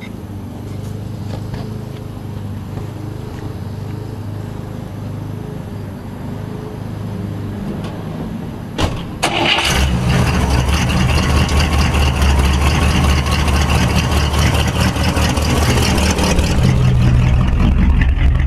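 A motor vehicle engine running steadily. About nine seconds in there is a click, and the engine sound becomes much louder, with a strong hiss over its low note.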